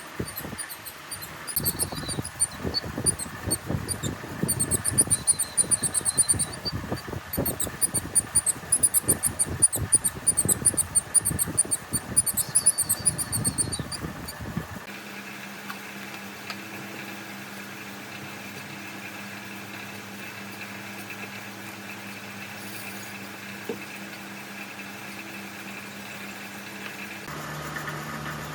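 Irregular squeaky scraping and rattling for about the first half. It then gives way suddenly to a steady machine hum with a low drone and a higher whine, like an electric fan motor running.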